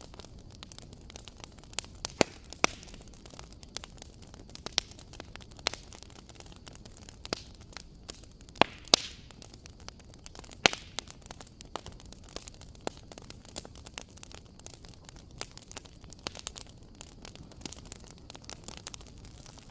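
Wood fire crackling in a fireplace: a steady low hiss with dense, irregular pops and snaps, a few of them louder.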